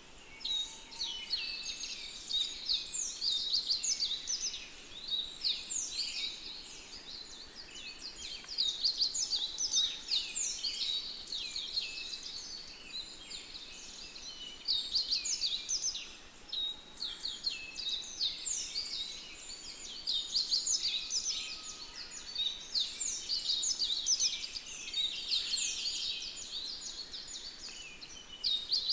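Many small birds chirping and twittering together in a dense, continuous chorus of quick, high, mostly downward-sweeping notes.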